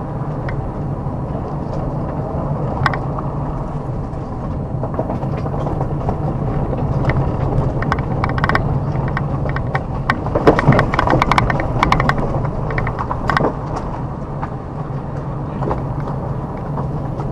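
A car's engine and tyres running steadily on a forest road, with frequent crackling and snapping as the tyres roll over fallen twigs and debris. The crackling is thickest about ten to thirteen seconds in.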